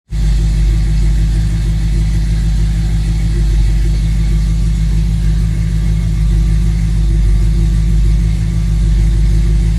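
1979 Jeep pickup truck's engine idling steadily, a deep even hum with no revving.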